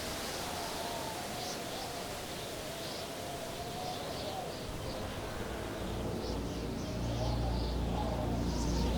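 Film soundtrack ambience: a slowly wavering tone with scattered short high chirps, joined by a low steady drone that swells about seven seconds in.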